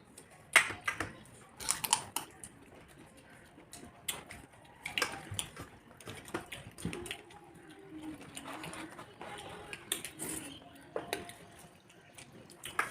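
Dishes and cutlery clinking during a meal: a series of sharp, scattered clinks, the loudest about half a second in and another at the very end.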